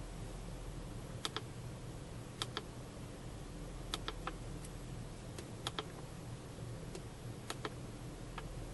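Scattered clicks of laptop keys being pressed, singly or in pairs every second or two, over the steady low hum of the Ford Taurus's 24-valve engine idling.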